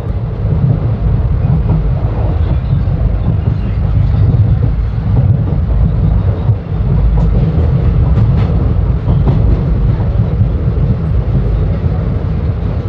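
Passenger train coach running along the track, heard from its open doorway: a loud, steady rumble heaviest in the low end, with a few faint clicks about eight to nine seconds in.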